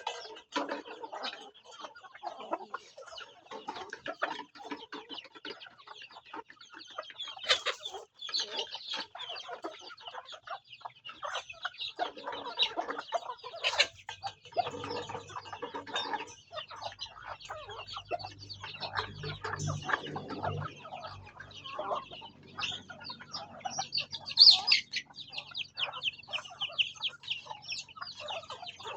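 Farm chickens clucking and calling in a busy, irregular chatter. A low steady hum runs beneath them through the middle of the stretch.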